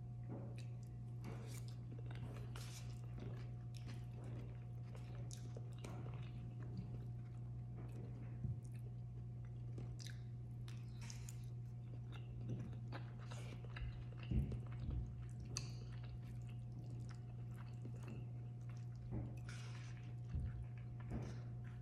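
Close-miked chewing and biting of a rice bowl with chicken, radish and corn: soft wet chewing with small crunches and clicks, and a plastic fork scraping and tapping in the bowl, with one louder knock about two-thirds of the way through. A steady low hum runs underneath.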